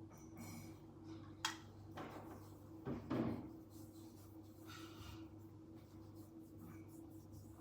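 Small objects being handled: a sharp click about a second and a half in and a dull knock around three seconds, over a steady low electrical hum.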